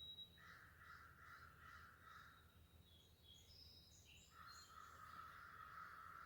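Faint harsh cawing from a crow-like bird in two runs of about two seconds each, the second starting a little past the middle. Brief high chirps from small birds fall between them.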